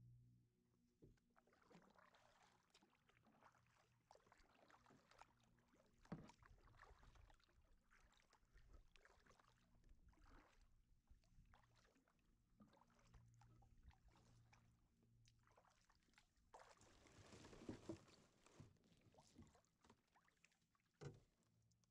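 Faint kayak paddling: irregular paddle strokes dipping and splashing in the water, with a longer, denser stretch of splashing about three-quarters of the way through.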